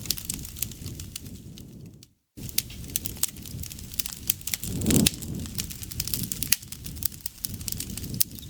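Wood campfire crackling, with frequent sharp pops over a low rush of the flames. The sound cuts out completely for a moment about two seconds in, and a louder low whoosh comes about five seconds in.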